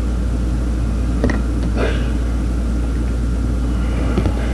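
Steady low rumble or hum, with a few light knocks or clicks: about a second in, just before two seconds, and near the end.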